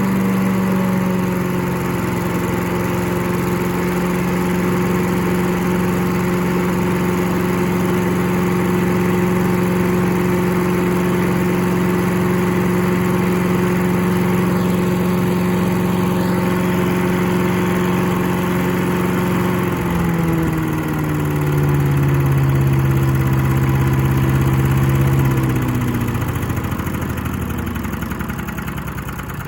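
Briggs & Stratton 5HP Industrial Plus single-cylinder engine on a chipper/shredder, running steadily at high speed. About twenty seconds in it is throttled back, its pitch dropping in two steps. Then the revs slide down and the sound fades near the end as the throttle is reduced further.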